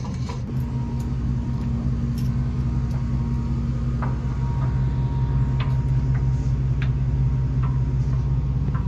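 A vehicle engine idling with a steady low rumble, with a few faint clicks and knocks over it.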